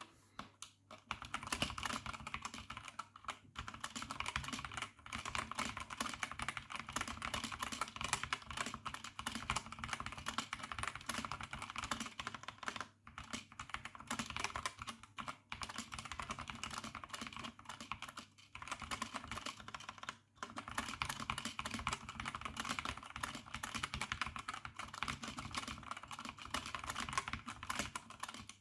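A+ K77W computer keyboard being typed on fast: a dense, continuous clatter of key presses with a few brief pauses.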